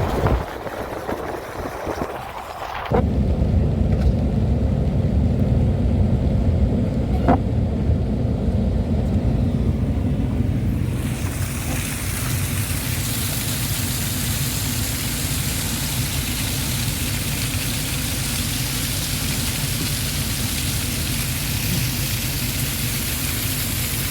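A steady low rumble that grows stronger about three seconds in. About eleven seconds in it is joined by a loud, steady rushing hiss of water, which holds to the end.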